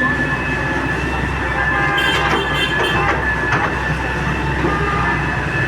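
Heavy excavator running, its engine droning steadily under a high steady whine, with a cluster of metallic squeals and clanks about two to three and a half seconds in.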